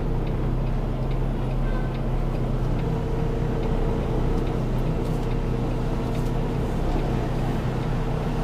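Peterbilt 579 semi truck's diesel engine running steadily at low revs while the rig creeps forward, heard from inside the cab.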